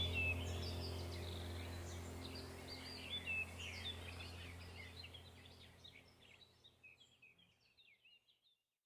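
Background nature track of small birds chirping busily over a steady low drone, fading out to silence about six seconds in.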